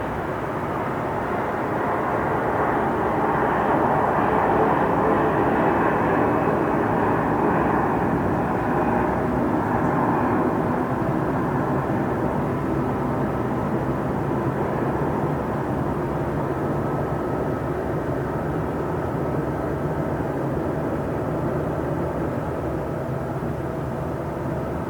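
Train station ambience: a steady mechanical rumble with faint steady tones running through it. It swells a couple of seconds in, peaks between about four and ten seconds, then slowly eases off.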